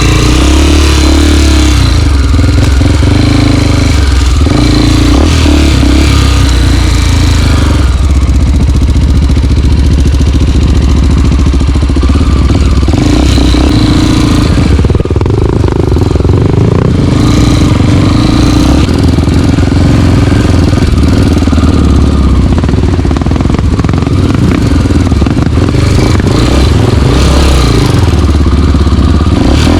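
Single-cylinder four-stroke trail motorcycle engine running as the bike rides along, its pitch rising and falling with the throttle.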